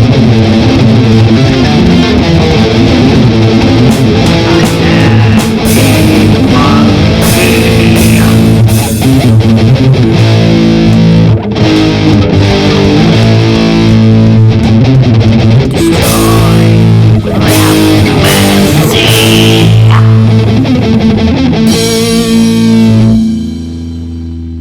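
Rock song demo dominated by distorted electric guitar, playing loud and steady. About a second before the end the full playing stops and a last held chord rings out more quietly.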